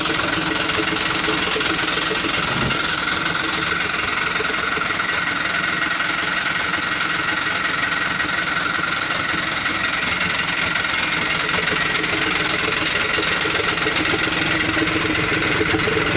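Toyota Dyna 130HT truck engine idling steadily through an aftermarket 'wolf-sound' exhaust, the exhaust note carrying a held, steady whistling tone over the engine's running.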